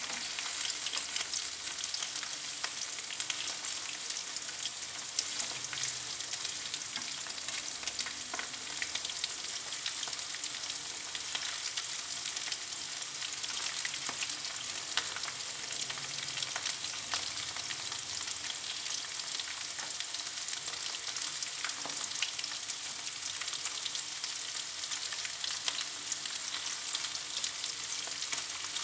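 Flour-coated shrimp frying in hot oil in a wok: a steady sizzle full of small crackles.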